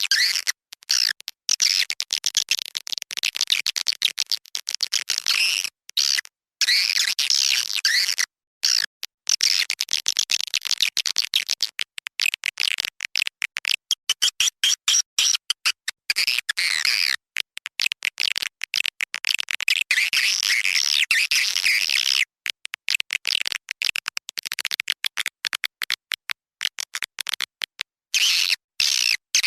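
Swiftlet lure-call recording: dense, high-pitched chittering and twittering of edible-nest swiftlets, played to draw the birds into a swiftlet house. It is broken by many brief silent gaps.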